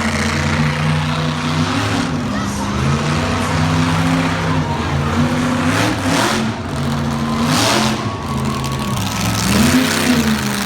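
Monster truck engine revving hard and changing pitch again and again, with surges that climb and fall several times.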